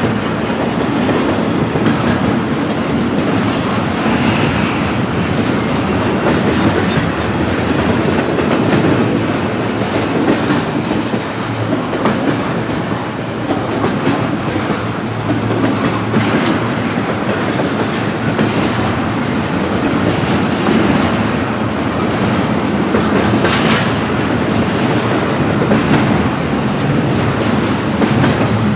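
Intermodal freight train cars rolling past, wheels clicking and clattering over the rail joints in a steady, continuous rumble. A brief high-pitched screech comes about three quarters of the way through.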